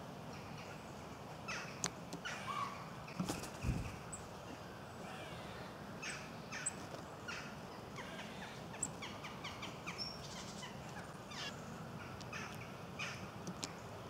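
Woodland birds calling, with short chirps and sharp clicks scattered throughout and a louder knock about three and a half seconds in.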